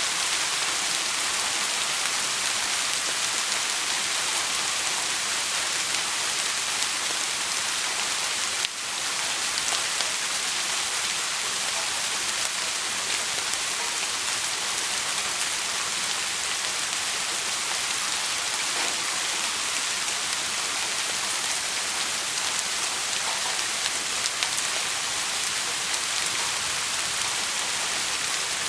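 Steady heavy rain falling, a dense even hiss, with a brief drop in level about nine seconds in.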